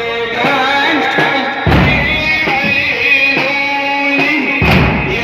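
A Shia latmiya (Husseini lament chant): a sung melodic line over sustained backing, punctuated by two deep heavy percussive hits about three seconds apart.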